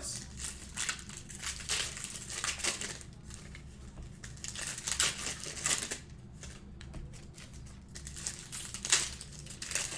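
Plastic card packaging being crumpled and torn open, with irregular crinkling crackles throughout.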